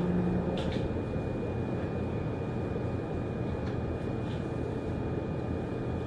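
Keio 6000 series electric train running, heard from inside a passenger car: a steady rumble of wheels on rail with a few light clicks.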